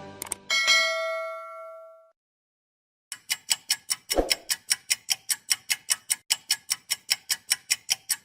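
A bright bell-like ding that rings out and fades over about a second and a half. After a short silence, a rapid, even ticking starts, about five ticks a second, with a single low thump early on.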